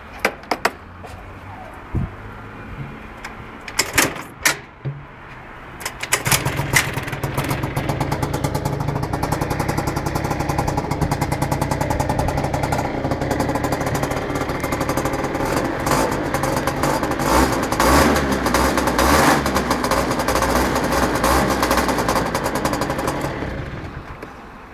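Scooter engine, a 100cc swapped into a Vivacity 50 and breathing through a new sports exhaust. A few clicks and knocks come first; about six seconds in the engine starts running and is revved, loudest around two-thirds of the way through. It dies away near the end.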